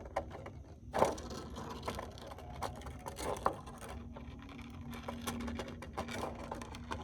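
A stiff plastic sheet being cut by hand: a string of small clicks and scrapes, a little louder about one second and three and a half seconds in. A low steady hum comes in about four seconds in.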